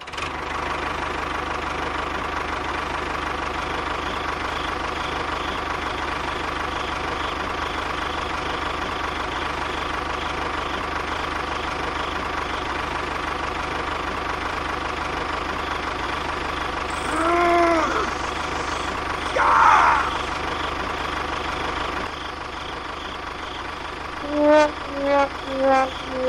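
Small engine running steadily at a constant speed, a little quieter from about 22 seconds in. A few short pitched calls or voices sound over it near the end.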